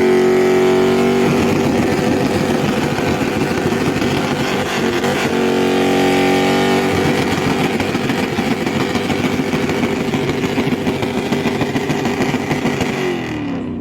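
Car engine revved up and held on a two-step launch-control rev limiter, sitting at one steady high rpm for most of the time, with a brief dip about five seconds in before going back up, then let off and falling away near the end.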